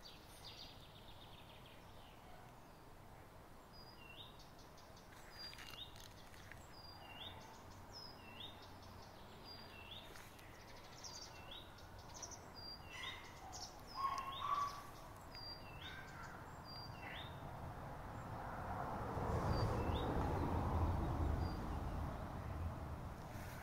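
A small songbird calling over and over, short high chirps about once a second, against faint outdoor background. Near the end a louder rushing noise rises and falls for a few seconds.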